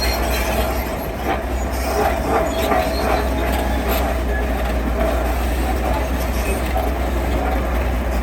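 Heavy earthmoving machine running steadily with a deep engine drone, a metallic squeal and a few clanks in the first half.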